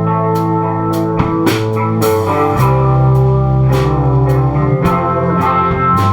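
Live indie rock band playing an instrumental passage: electric guitar chords held over bass, with drum and cymbal hits about twice a second.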